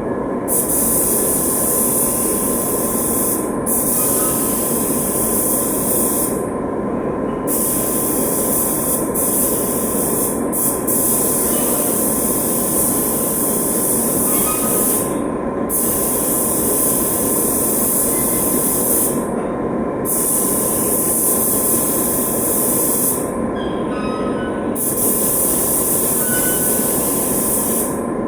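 Air spray gun spraying urethane paint: a steady high hiss, broken every few seconds by short gaps where the trigger is let off. A steady lower running noise with a faint whine continues underneath.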